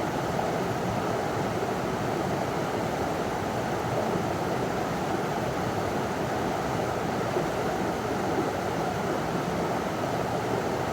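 River water running over a small waterfall: a steady, even rush.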